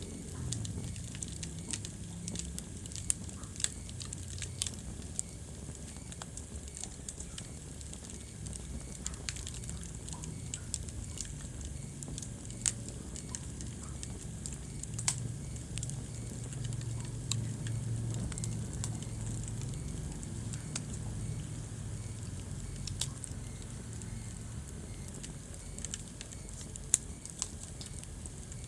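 Wood fire crackling in a fireplace: scattered sharp pops and snaps, a few louder than the rest, over a low steady rumble.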